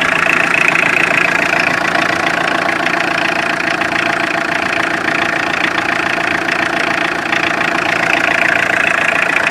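Tata Indica's engine idling steadily.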